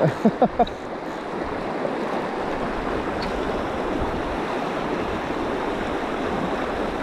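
River water rushing steadily, an even unbroken noise. A few short voice-like sounds come in the first half second.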